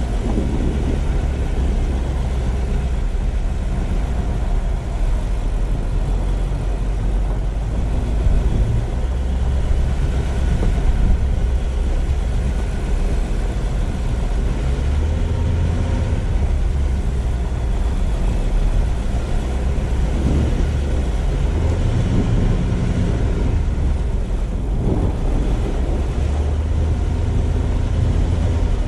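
A car driving: a steady low rumble of engine and tyre-on-road noise, swelling slightly now and then.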